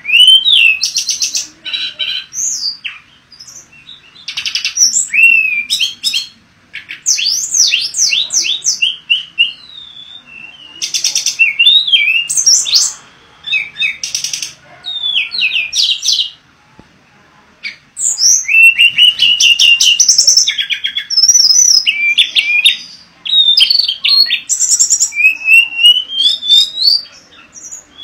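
Hill blue flycatcher (tledekan gunung) singing: bouts of a few seconds of fast, varied high whistles, slurs and trills, about seven in all, with short pauses between them.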